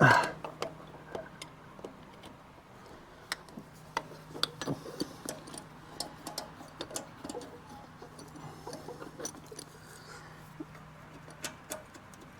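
Hand work fitting a tractor fuel filter and bowl: a sharp knock at the start, then irregular light clicks and taps as the parts and gasket are worked into place.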